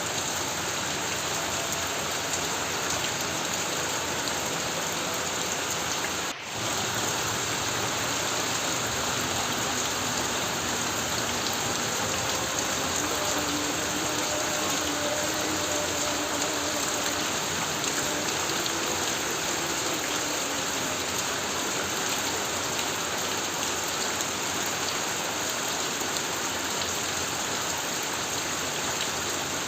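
Heavy rain pouring steadily on a corrugated tin roof, a dense even patter with no thunder. The sound drops out for a moment about six seconds in.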